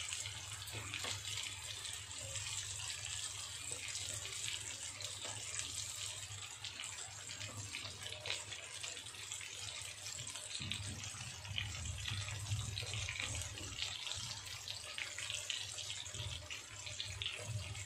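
Rice-flour-coated chicken lollipops shallow-frying in hot oil in a kadai: a steady sizzle with fine crackling, over a low hum.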